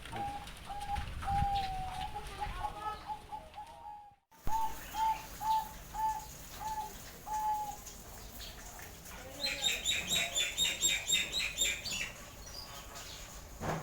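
Zebra doves (perkutut) cooing: a series of short, soft notes all at the same pitch, some in quick runs, others spaced about two a second. Near the end another bird gives a quick run of high chirps for a couple of seconds.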